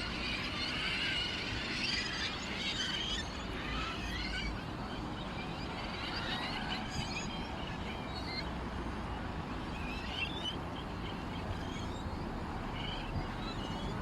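Small birds chirping and twittering, a dense run of quick chirps in the first few seconds that thins to scattered calls.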